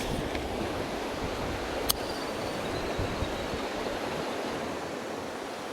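River water rushing steadily as a noise haze, with one sharp click about two seconds in.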